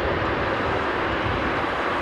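Airbus A320neo airliner's Pratt & Whitney PW1100G geared turbofan engines, a steady rushing jet noise as it flies in on final approach to land.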